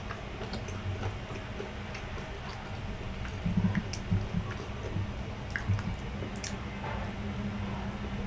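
Close-miked chewing and wet mouth sounds of someone eating grilled isaw and rice, with scattered small clicks and a few louder soft knocks about three and a half to four seconds in.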